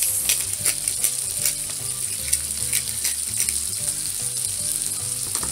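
Salmon fillets and a chicken breast frying in an electric skillet: a steady sizzle with frequent sharp, irregular pops.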